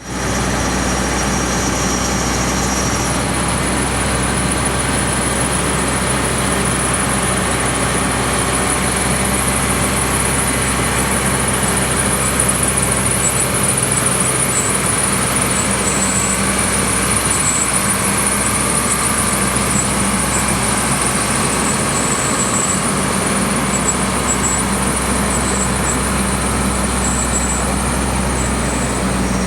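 1997 Volvo truck's diesel engine idling steadily, with a steady low hum and a faint high whine over it.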